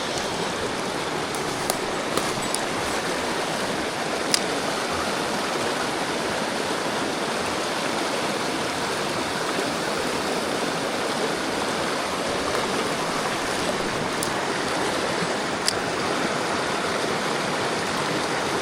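Mountain stream water rushing and splashing steadily, with a few brief faint clicks.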